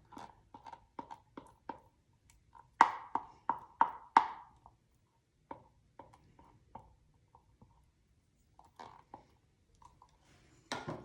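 A string of light taps and knocks of a kitchen utensil against a microwave-safe bowl as sticky corn syrup is added: about three taps a second at first, a louder run of five about three seconds in, then scattered taps.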